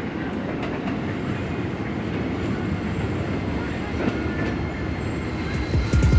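Keisei Main Line electric train running on the track at Machiya station. Its rumble grows gradually louder, with occasional faint clicks of wheels on the rails.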